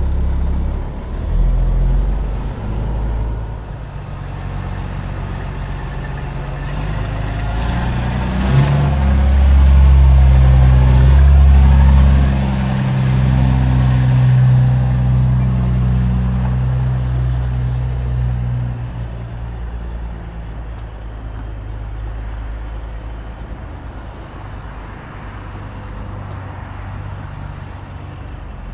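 Semi truck's diesel engine running under load, building to its loudest about a third of the way through and then easing off and growing gradually quieter.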